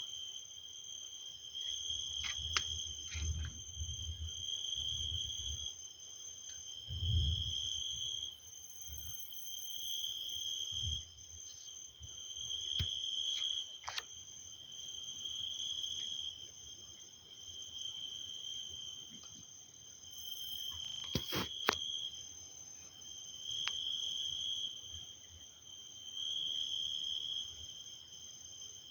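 Crickets chirping steadily in a high trill that swells about every two seconds. A few low rumbles come in the first eight seconds, and there are scattered sharp clicks, the loudest pair about two-thirds of the way through.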